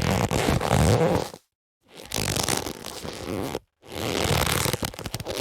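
Boxing gloves being handled, making a noisy rubbing sound in three bursts of about one and a half seconds each, separated by short silent gaps.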